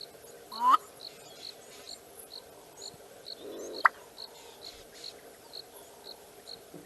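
Black-bellied bustard's display call: a short rising note about half a second in, then a single sharp pop a few seconds later. Insects chirp steadily underneath, about two high ticks a second.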